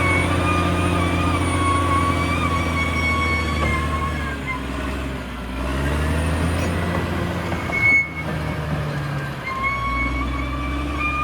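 Caterpillar D6R XL bulldozer working: the diesel engine runs under a wavering high-pitched whine. The whine fades out about halfway through as the engine note drops and then rises again, and it returns near the end. A short sharp sound comes about eight seconds in.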